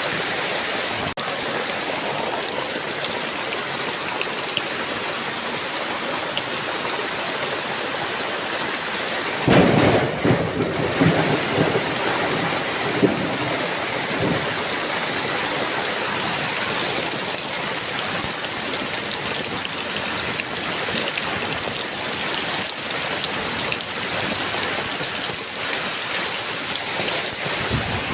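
Heavy rain falling steadily. About ten seconds in, a thunderclap breaks in and rumbles for a few seconds, with one more sharp crack a little later.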